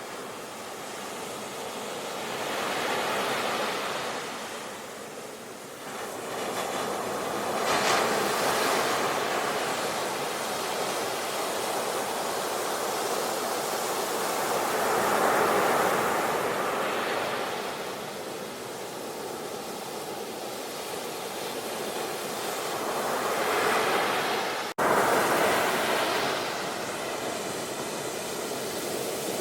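Sea waves breaking and washing up the shore: a steady hiss that swells and ebbs in several surges, with a momentary dropout near the end.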